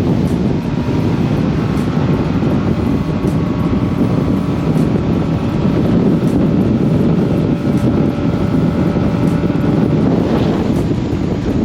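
Motorboat underway at speed: a steady engine drone with a faint whine above it, under heavy wind buffeting on the microphone.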